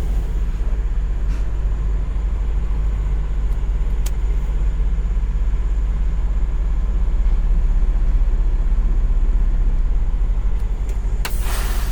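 Peterbilt semi truck's diesel engine idling steadily, a low rumble heard from the cab. Near the end comes a short, loud burst of air hissing.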